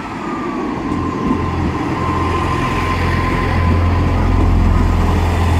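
Class 158 diesel multiple unit pulling out under power, a low engine drone with a thin steady whine above it, growing louder.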